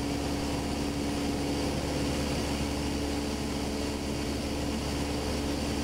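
Steady drone of a light airplane's piston engine and propeller, with a constant low hum, heard inside the cockpit.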